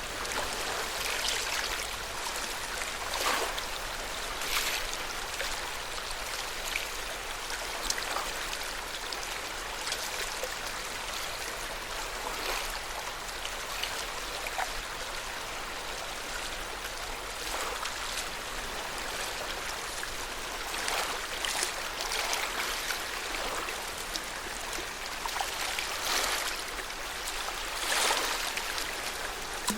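Small lake waves lapping at the shore: a steady wash of water with soft, irregular splashes every second or few.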